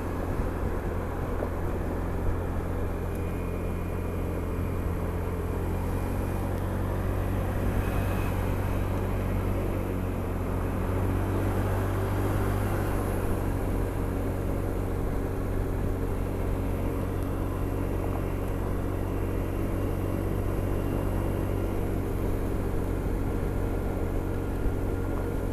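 Honda SH 300i scooter's single-cylinder engine humming at a steady motorway cruise, with a constant rush of wind and road noise over it.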